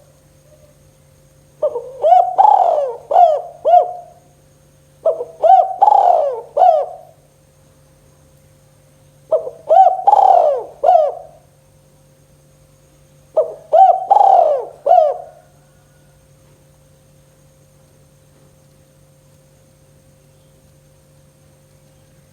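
Spotted dove (tekukur) cooing in the 'kuk 2' call pattern: four separate phrases of several coos each, about four seconds apart. A faint steady hum runs underneath.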